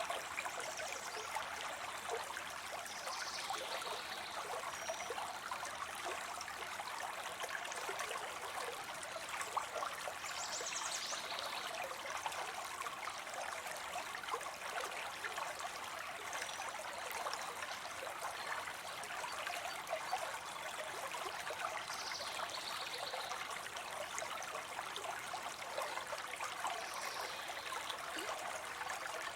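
Water spilling steadily into a pond: a continuous splashing trickle.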